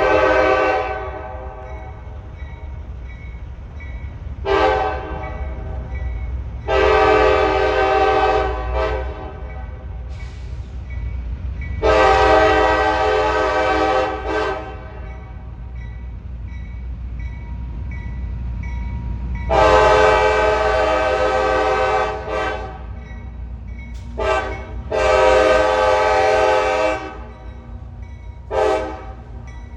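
CSX freight locomotive's air horn sounding a series of blasts, some long and some short, over the steady low rumble of the moving train.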